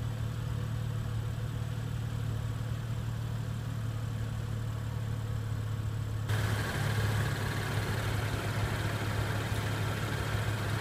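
BMW 435i's turbocharged 3.0-litre inline-six idling steadily with a low, even hum. A broader hiss joins it about six seconds in.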